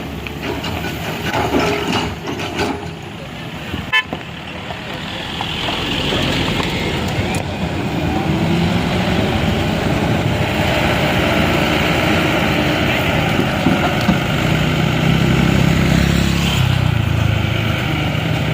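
Motor vehicle engine running, getting louder about five seconds in and then holding steady, with a horn sounding.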